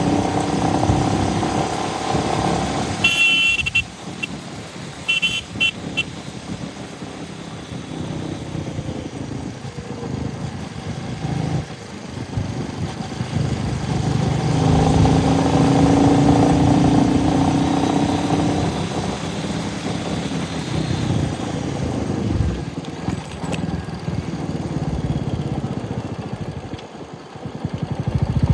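Royal Enfield Meteor 350's single-cylinder engine running under way, its revs falling and rising, with road and wind noise. A vehicle horn beeps three short times, three to six seconds in.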